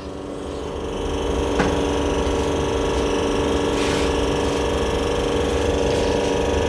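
Espresso machine's pump running steadily with a hum, building up over the first second, as a single shot is pulled while its volumetric dose (27 ml for a 1:3 ratio) is being programmed. There is a small click about a second and a half in.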